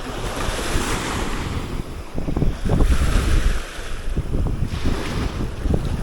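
Small waves washing up the sand at the water's edge, swelling about half a second in and again around three seconds in, with wind buffeting the microphone.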